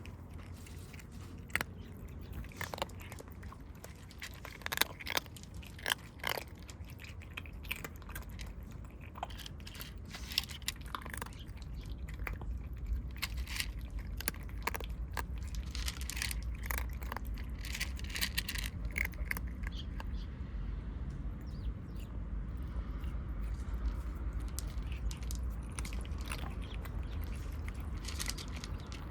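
Stray kittens crunching cat food: irregular, crisp chewing clicks, thickest through the first two-thirds, over a steady low rumble.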